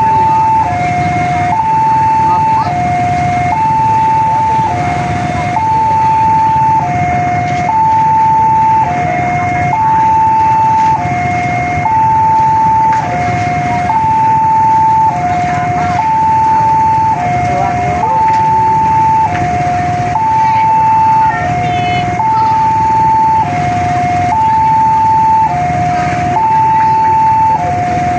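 Electronic warning alarm of a railway level crossing sounding its two-tone signal, steadily alternating a high and a lower tone about once a second, which warns that a train is approaching and the gate is closed. Road traffic runs underneath it.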